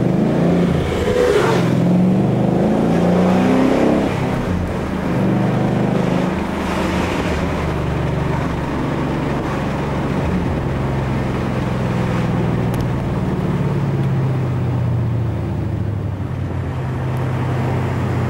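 Ford Mustang GT V8 engine heard from inside the cabin, rising in revs for the first few seconds, easing off at about four seconds, then running at fairly steady cruising revs.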